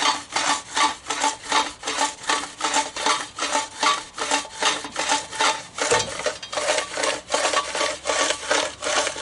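Lawn mower recoil starter being spun back and forth by hand, rasping with each stroke at about three strokes a second, as freshly dripped 3-in-1 oil is worked into the recoil spring.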